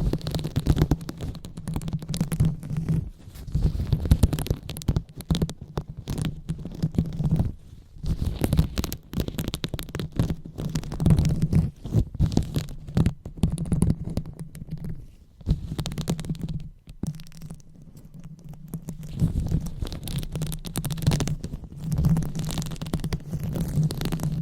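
Close-miked ASMR 'brain massage' sounds: irregular rubbing and scratching strokes on the microphone, crackly and dense, over a steady low hum, easing off briefly about two-thirds of the way through.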